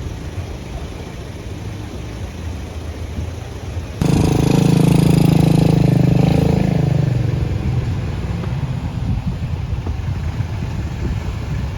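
Heavy truck engines running on a steep mountain road with a steady low rumble. About four seconds in, a much louder engine sound starts suddenly, holds for about three seconds, then fades back into the rumble.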